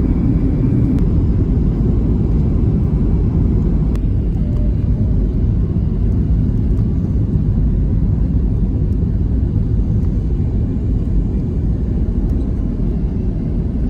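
Steady low rumble of cabin noise aboard a Boeing 737-700 airliner: engine and airflow noise heard from inside the passenger cabin.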